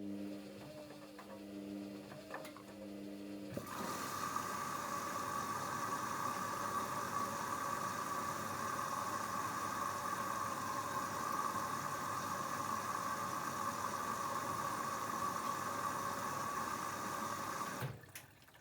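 Hoover Dynamic Next washing machine early in its Rapid 14' cycle: a low steady hum with a few clicks, then water rushing in through the inlet valve as a steady hiss from about four seconds in, cutting off suddenly near the end.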